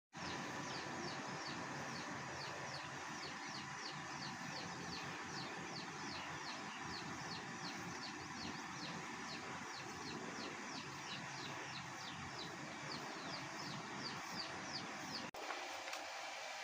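A bird calling over and over in short, high chirps that fall in pitch, about three a second, over a steady hiss. The chirping stops at a sudden cut about 15 seconds in.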